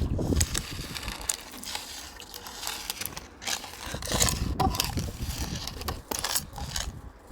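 Irregular clicking, scraping and rustling of small toy figures and props being handled and moved about.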